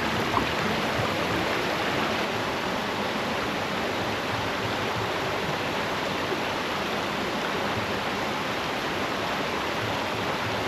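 Steady rush of flowing spring water at the headwaters springs of the Sacramento River.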